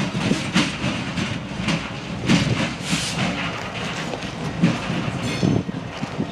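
A train rolling past close by: a steady rumble with irregular knocks and clacks from its wheels on the rails.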